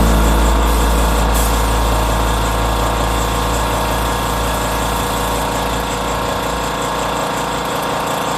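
A motor running steadily with a deep hum, easing off slightly toward the end.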